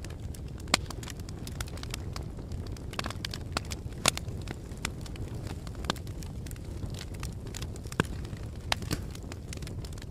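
Fire crackling: irregular sharp pops and snaps, a few louder ones about a second, four and eight seconds in, over a steady low rumble of the flames.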